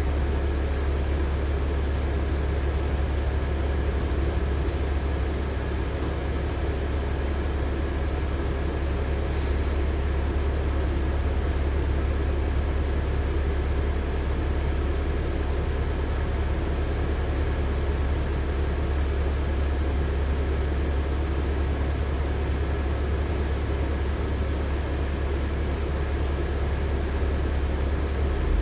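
Engine of a LiAZ-6213.65 articulated city bus running at a steady idle, a constant deep hum heard from inside the cabin with no change in pitch.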